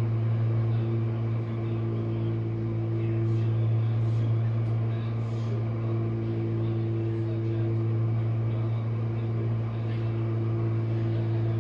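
Jenn-Air dishwasher running mid-cycle, its pump motor giving a steady hum over the noise of the water.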